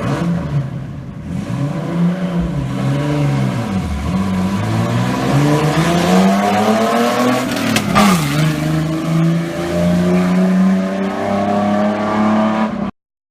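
1989 Ford Ranger prerunner's engine revving up and down as the truck is driven hard. The pitch climbs steadily, drops sharply about eight seconds in, then holds steady before the sound cuts off abruptly near the end.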